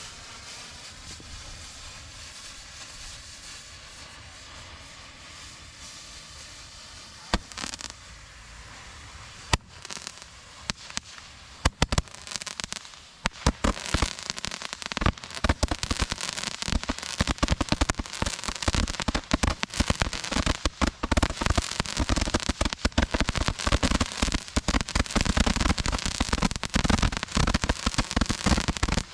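Consumer fireworks, roman candles fired from a holder rack: a steady hiss, then a few separate pops between about seven and twelve seconds in, and from about thirteen seconds a dense, continuous crackle of rapid pops.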